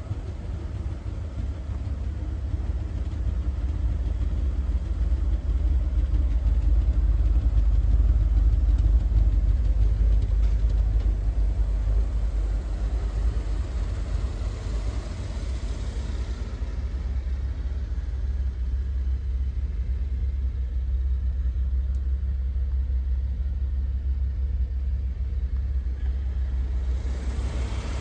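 Rolls-Royce Silver Spirit's 6.75-litre V8 idling with a steady low rumble that swells for a few seconds and then settles. The engine is said to run rough and to need a service.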